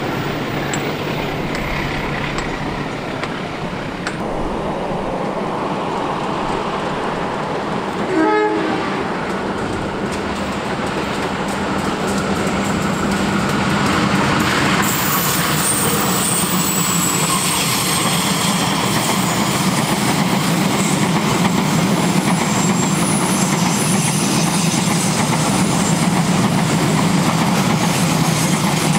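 A train running past, its rumble and rail noise growing louder about halfway through, with a short horn blast about eight seconds in.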